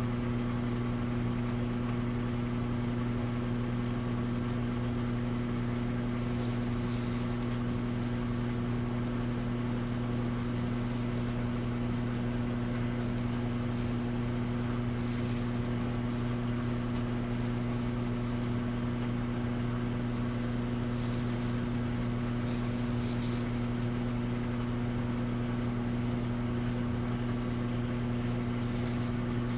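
Electrolux Essential Care 11 kg front-loading washing machine running through a wash with curtains, a steady electric hum with faint brief hissing now and then.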